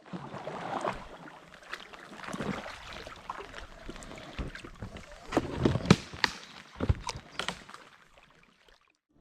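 Paddling a boat on a river: paddle blades dipping and splashing in the water, with sharp knocks and splashes that are loudest a little past the middle. The sound fades away near the end.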